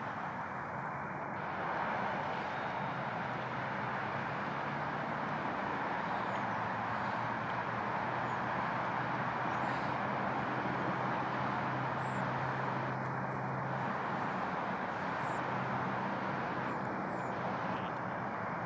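Steady outdoor background noise: an even rushing hiss with a faint low hum, and a few faint, brief high chirps.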